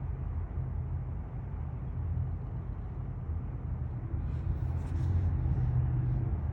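Car engine running at low revs with a low exhaust rumble, swelling slightly about five seconds in.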